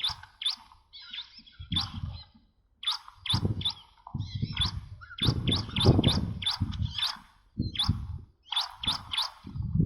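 Ciblek batik calls used as a trapping lure: quick bursts of short, sharp chirps, each rising steeply, several a second with brief gaps between bursts. Low rumbling bumps come and go underneath.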